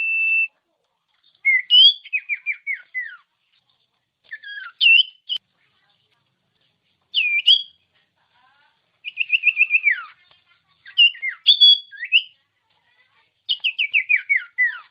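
Common iora (cipoh) singing: clear whistled phrases separated by short pauses, some a held note and others quick runs of four to eight falling notes.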